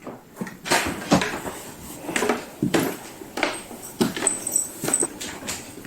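A string of irregular knocks, clicks and rattles, as a door is worked open and things are handled, with a brief faint high squeak about two-thirds of the way through.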